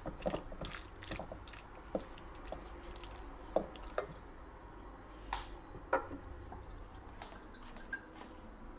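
Irregular light taps and clicks with soft squishy handling noises of food and kitchen utensils, the sharpest clicks about three and a half, five and six seconds in.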